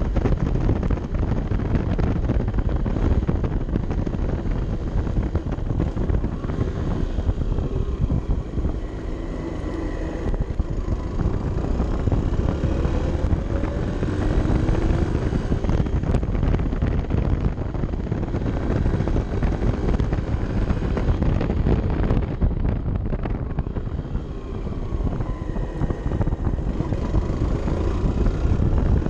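Honda CB 125 F's single-cylinder four-stroke engine, heard from the bike while riding, its pitch rising and falling as it revs up and eases off. Heavy wind rushes over the microphone.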